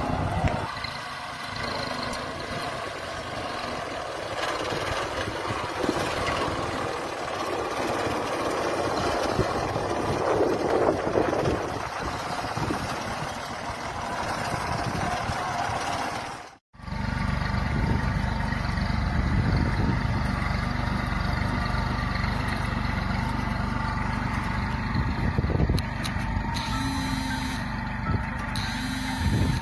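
Kubota tractor diesel engine running steadily in two separate clips, with a sharp break about halfway where the sound cuts out and returns lower and heavier.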